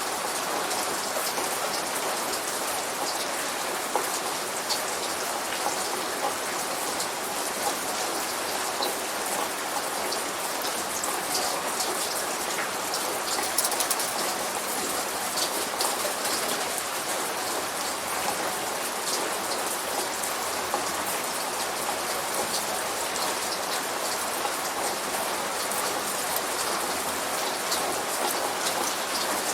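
Steady light rain: a continuous hiss, with many separate drops ticking sharply throughout.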